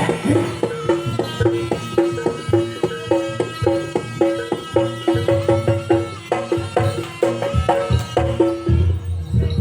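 Javanese jaranan accompaniment played live: hand drums keep a quick rhythm under a fast repeated two-note figure on pitched gamelan percussion.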